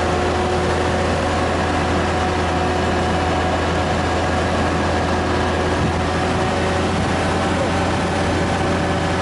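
Heavy diesel construction machinery running steadily, a constant low engine drone under a wide even noise.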